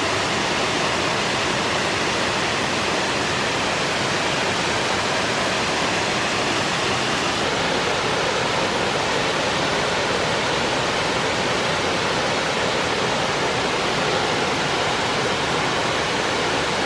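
Steady, even rushing roar of Pratts Falls, a waterfall, with no breaks or changes.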